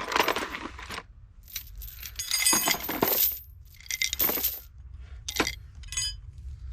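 Metal hand tools clinking and clattering as they are moved and set down: several separate knocks, some with a short metallic ring.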